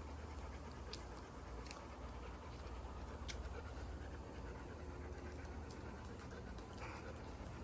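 Golden retriever panting softly over a steady outdoor hiss and low rumble, with a few faint clicks.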